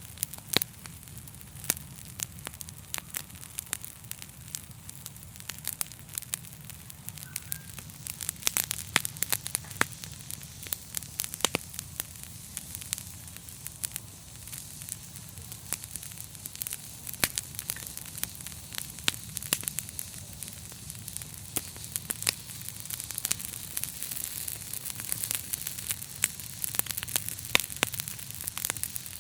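Wood fire burning in a fireplace, with frequent irregular sharp crackles and pops over a steady low rumble of the flames.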